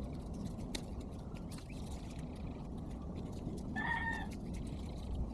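A short animal call about four seconds in, over a steady low background with many faint ticks.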